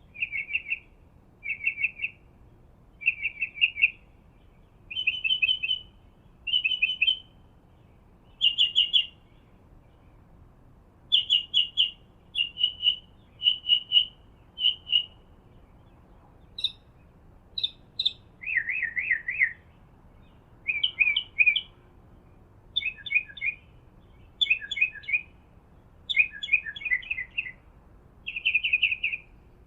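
A songbird singing a run of short, varied phrases, one every second and a half or so, with each phrase type repeated a few times before it changes.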